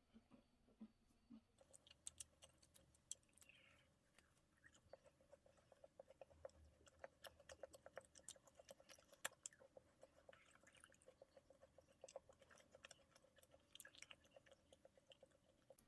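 Faint close-up chewing of macarons, with many small crisp clicks and crackles as the shells are bitten and chewed.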